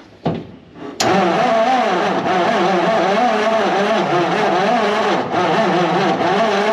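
The 1959 Ford F700's engine being cranked over by the starter, starting about a second in and turning over steadily with a rhythmic rise and fall in pitch. The engine, freed up after being soaked, cranks over real good.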